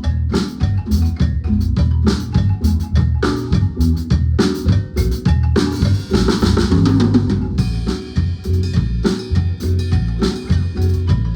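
Guatemalan marimba ensemble playing a tune, with the drum kit up front. Snare, kick and rimshot strokes keep a steady beat over bass and marimba, and a cymbal wash comes in about six seconds in.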